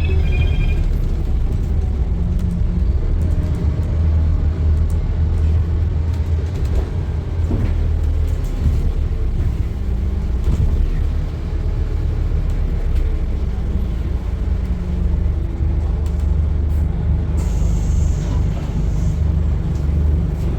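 Scania N230UD bus's diesel engine running under way, a steady low drone whose pitch shifts as it pulls. About three-quarters of the way through comes a short hiss of compressed air.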